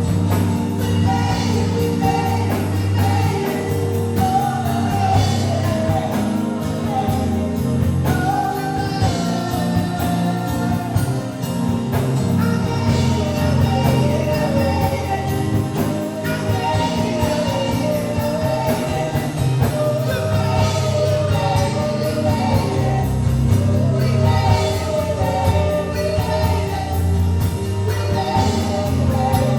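Live gospel worship music: singers carrying a melody over a band with steady bass.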